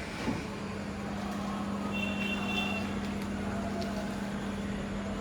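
Tractor-driven rice mill running: the tractor engine and the mill machinery make a steady mechanical drone, with a short knock just after the start and a steady hum from then on.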